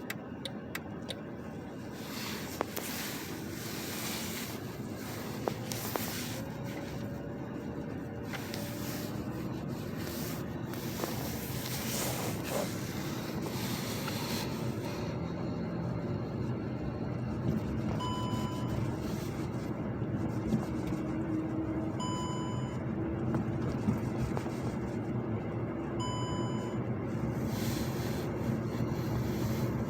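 Car driving on a snowy road, a steady road and engine noise heard from inside that slowly grows louder. From about halfway through, a short electronic chime sounds about every four seconds.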